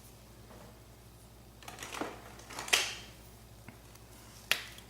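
A few scattered light taps and clicks from handling a Tombow liquid glue bottle and small paper cut-outs on a craft table while glue is dabbed on.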